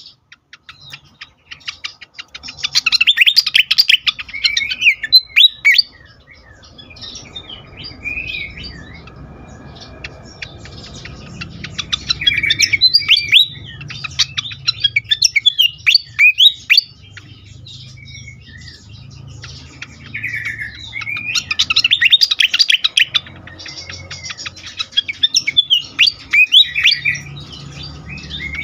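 Sikatan kipas (fantail) singing: rapid high chirps and twittering in busy spells a few seconds long, with sparser calls between, over a low steady hum.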